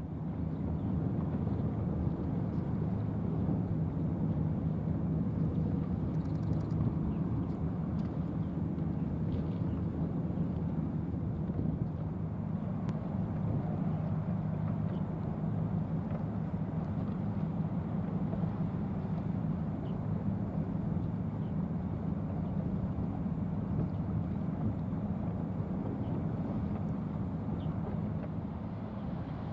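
Large ship's diesel engine droning steadily: a low, even hum.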